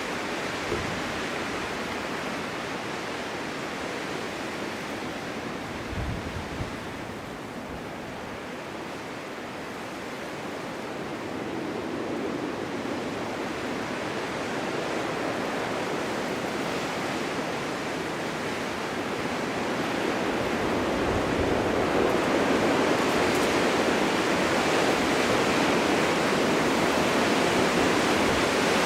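Snowstorm wind blowing as a steady rushing noise. It eases a little about a third of the way in, then builds louder over the second half, with a few brief low buffets about six seconds in.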